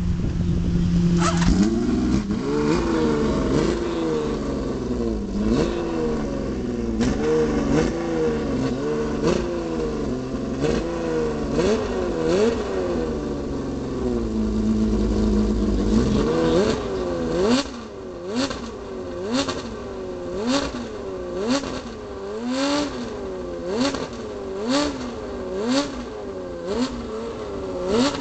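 Honda CBX inline-six motorcycle engine revved hard again and again during a burnout, its pitch rising and falling about once a second. It holds briefly at a steady pitch past the middle, then carries on in quieter, more spaced-out revs.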